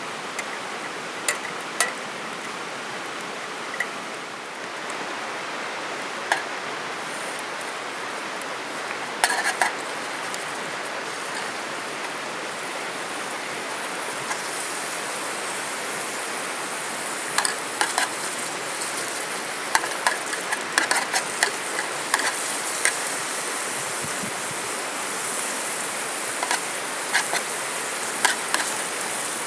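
Steady rush of flowing stream water, with scattered sharp clicks and clinks like utensils against cookware, coming thickest a little past the middle.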